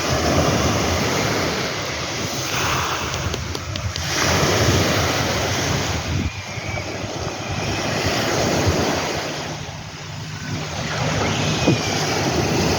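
Sea waves breaking and washing up the sand in repeated surges that swell and fade every few seconds, with wind buffeting the microphone.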